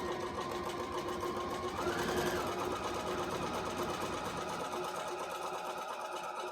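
Bernina Virtuosa 150 sewing machine running, its motor whine steady, then rising briefly to a higher speed about two seconds in before settling.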